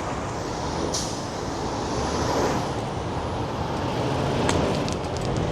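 Steady city traffic noise from passing road vehicles, with a brief hiss about a second in.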